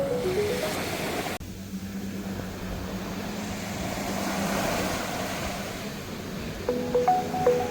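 A vehicle engine running with a steady low hum under an even rushing noise. Background music plays over the start, stops about a second in, and comes back near the end.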